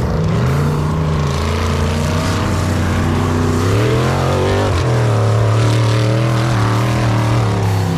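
Engines of off-road race trucks and buggies running hard and revving. About four seconds in, one engine's pitch climbs, dips, then holds high and steady.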